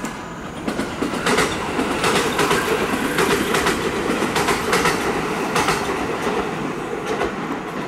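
A train running through the station past the camera, its wheels clattering rhythmically over the rail joints. The sound builds about a second in and eases off near the end.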